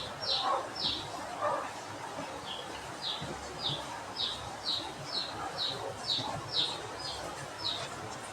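A small bird chirping over and over, short falling chirps about two a second, with a brief pause in the first couple of seconds.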